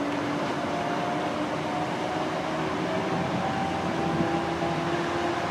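Tri-Rail commuter train starting to pull out, with the diesel engine of its BL36PH locomotive pushing from the rear: a steady running noise whose tones creep slowly upward in pitch as the engine powers up.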